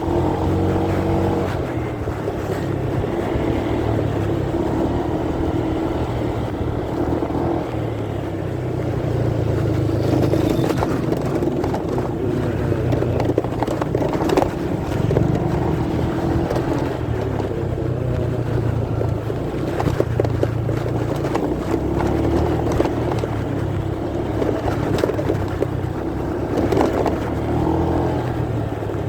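Motorcycle engine running under way, heard muffled through a pocket, its pitch rising and falling slowly with the throttle. Cloth rubs and scratches on the phone's microphone, with some wind.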